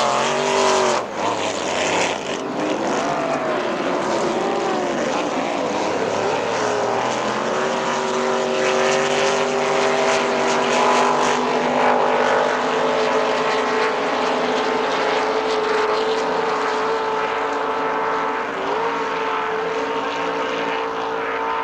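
Racing powerboat engine running hard: its pitch swings up and down for the first several seconds, then holds steady at high revs.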